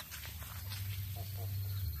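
Baby birds peeping faintly over a steady low rumble.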